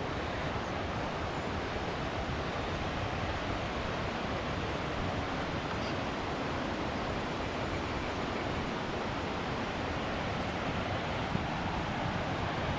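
Steady rush of water from a waterfall, an even roar with no breaks.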